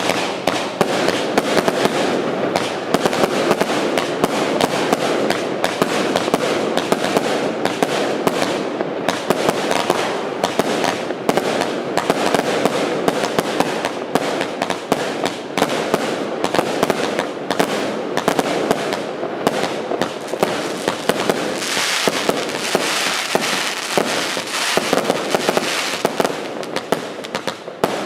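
Firecrackers going off in a dense, unbroken stream of rapid bangs and crackles.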